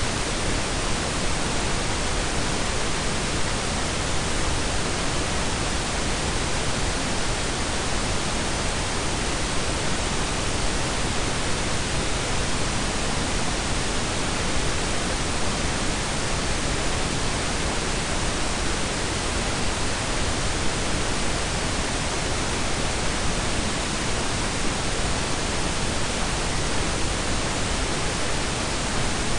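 Steady blend of pink and brown noise: an even, unchanging hiss with a deep rumble beneath it.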